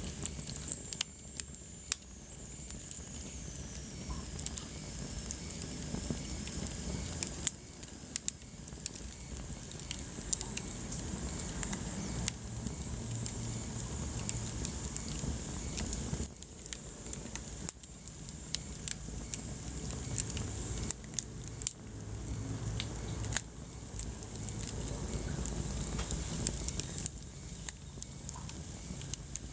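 Wood fire burning in a fireplace: a steady low rumble of flames with irregular sharp crackles and pops throughout. A faint high whistle falls slowly in pitch about a second in.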